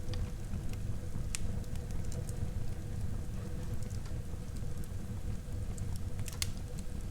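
Wood fire burning in a fireplace: a steady low rumble of flame under scattered crackles, with two sharper pops, one about a second and a half in and one near the end.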